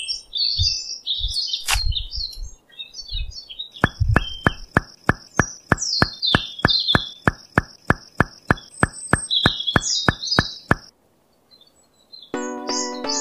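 Birds chirping, short high calls scattered throughout, with a few soft low thumps in the first few seconds. From about four seconds in, a steady run of regular clicks, about four a second, with a faint steady high tone, stops abruptly before eleven seconds. A short near-silent gap follows, then music starts just before the end.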